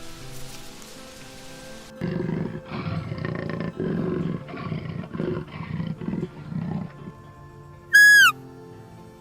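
A big cat roaring in a series of about eight rough, loud calls lasting some five seconds, following a hiss like rain. Near the end comes one short, very loud, high whistle-like squeal that drops in pitch as it stops.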